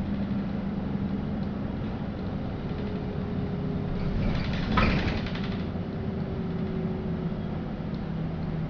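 Cabin noise of a LiAZ-5292.65 city bus under way: a steady engine hum and road rumble. A brief louder rush swells and fades about halfway through.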